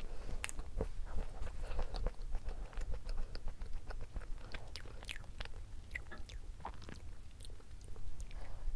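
Close-miked chewing of a soft chocolate-coated snack cake with strawberry cream filling, with many small scattered mouth clicks.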